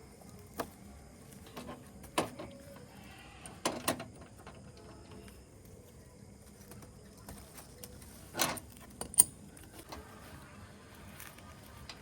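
Scattered knocks, clicks and clatter from hands and tools handling parts during air conditioner installation work, with a sharp click about nine seconds in the loudest.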